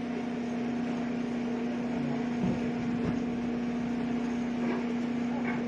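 Steady mechanical hum holding one low droning tone, over a constant rushing noise.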